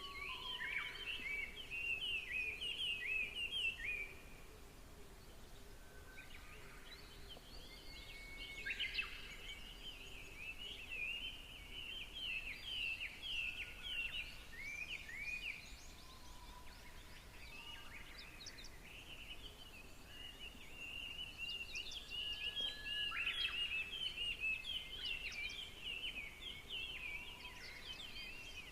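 Birds chattering in bouts of rapid, high chirping notes, busiest in the first few seconds, again from about eight to sixteen seconds in, and from about twenty-one seconds on, over a faint steady low hum.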